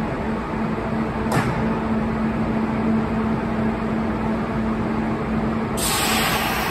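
Kintetsu express train standing at the platform, its on-board equipment giving a steady low hum. A single click comes about a second in, and a loud hiss starts near the end.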